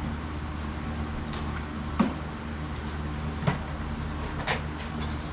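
A steady low hum with three short, sharp knocks about two, three and a half and four and a half seconds in.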